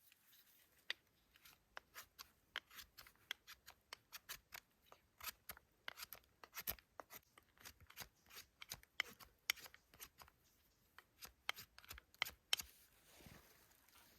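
Wood campfire crackling: faint, irregular sharp snaps, several a second, with a few louder pops.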